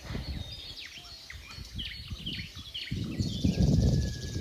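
Many birds chirping in short, quick, falling notes, over a low rumble of wind on the microphone that grows louder near the end.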